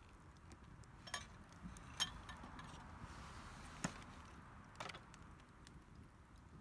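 Bamboo cracking or knocking: four sharp cracks about a second apart, the second one loudest, over a faint hiss.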